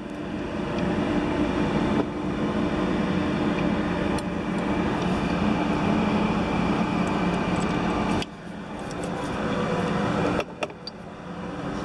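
A steady mechanical drone of machinery running, with a few constant low tones. The level drops abruptly several times and then picks up again.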